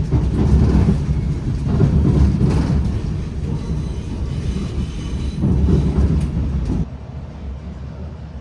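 Class 701 'Arterio' electric train running, a heavy low rumble with a few knocks from the wheels over rail joints. About two-thirds of the way through it drops abruptly to a much quieter rumble.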